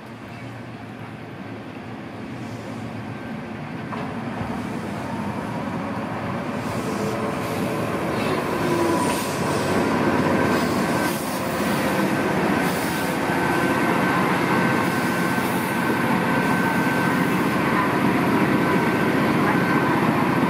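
Gakunan Railway electric railcar heard from on board as it pulls away and gathers speed. The running noise grows louder over the first ten seconds or so, then holds steady under a thin, high, steady whine.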